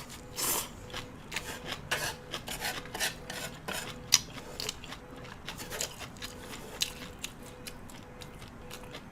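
Close-up chewing and crunching of grilled food, a quick irregular run of crisp crunches that thins out toward the end.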